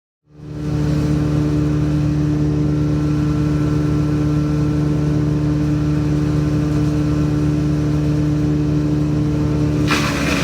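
Woodchipper engine running at a steady speed with an even hum. Near the end a harsher, noisier sound sets in suddenly over the hum.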